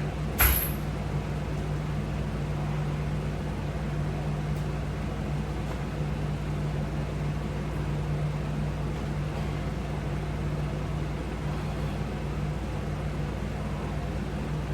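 Steady low mechanical hum with a couple of constant tones over a low rumble, and a single sharp click about half a second in.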